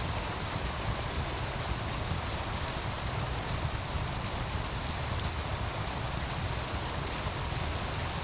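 Wood fire crackling with scattered sharp pops over the steady rushing of a meltwater stream.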